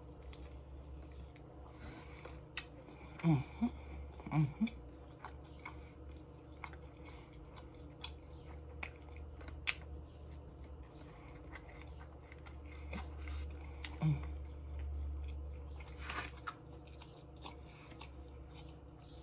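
Close-up mouth sounds of a person eating baby back ribs: wet chewing with scattered lip smacks and clicks, and a few brief low hums.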